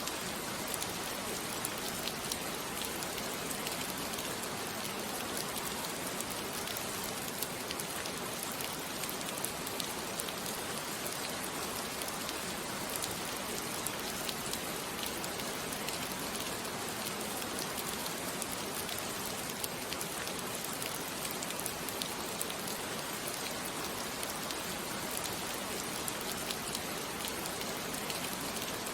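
Steady rainfall with many small drop ticks scattered through it, used as a sleep-sound backdrop.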